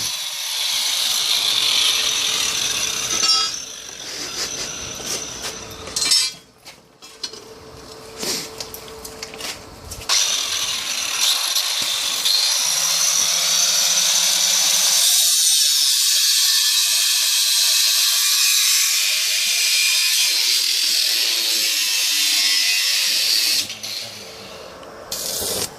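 Power tool running in several spells, the longest lasting about thirteen seconds, with a steady high-pitched noisy sound.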